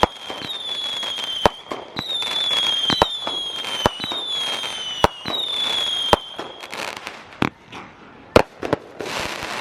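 Multi-shot firework cake firing whistling shots, about one a second: each a sharp bang followed by a slightly falling whistle. The whistles stop about six seconds in, leaving scattered bangs and a burst of crackling near the end.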